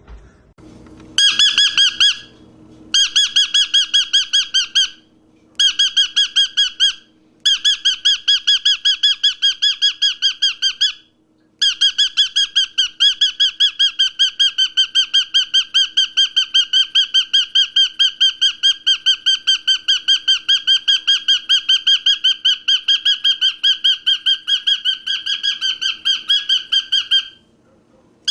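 A bird giving a loud, high, rapidly repeated call at a steady pitch, in several bursts broken by short pauses, the last and longest lasting about fifteen seconds. A faint low hum runs underneath.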